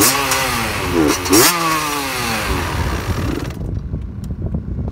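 65cc two-stroke dirt bike engine running and being revved in sharp blips, twice in the first second and a half, after a rebuild and carburettor re-jetting to cure its cutting out. The engine sound drops away abruptly about three and a half seconds in.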